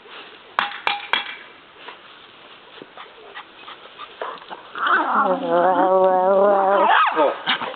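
A house pet's long, wavering drawn-out call, starting about five seconds in, lasting about two seconds and ending with a quick drop in pitch. It is preceded by a few sharp clicks near the start.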